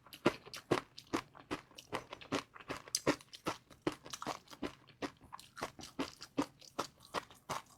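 Close-miked chewing of crispy fried noodles: a quick, steady run of sharp crunches, about three to four a second.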